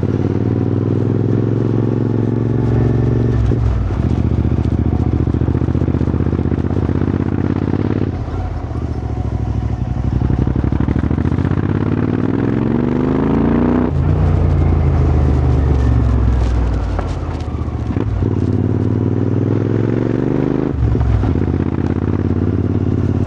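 Royal Enfield GT650's 648 cc parallel-twin engine breathing through a Powerrage aftermarket exhaust, pulling up through the gears: the revs climb, drop at each shift, and fall away when the throttle is closed about halfway through, before climbing again.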